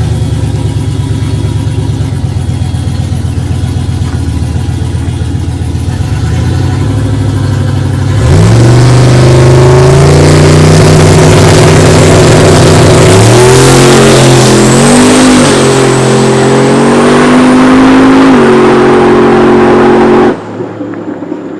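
Turbocharged street truck engine idling with a lumpy rhythm, then launching hard about eight seconds in on a drag-strip pass. The engine note climbs and drops back at each upshift, about three times, before the sound cuts off abruptly near the end.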